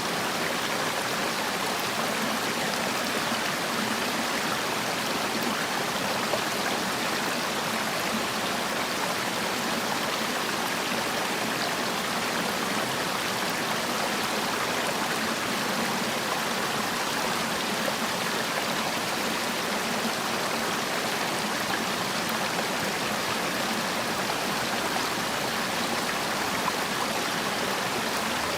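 Mountain stream rushing and splashing over rocks in a steady, even rush of water.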